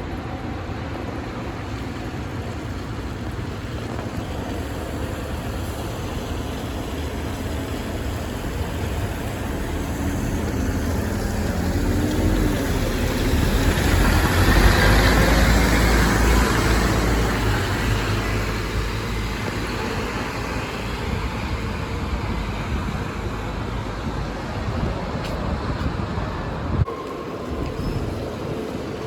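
A bus passing close by: engine rumble and tyre noise build to a loud peak about halfway through and fade away, over steady traffic noise.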